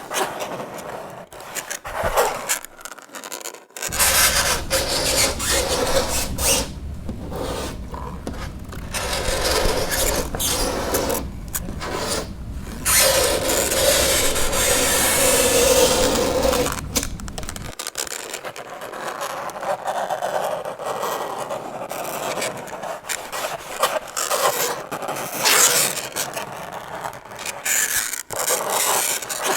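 Fingernails scraping across a chalkboard in a run of irregular strokes with short breaks between them. About halfway through, one long stroke carries a steady squealing pitch for about three seconds.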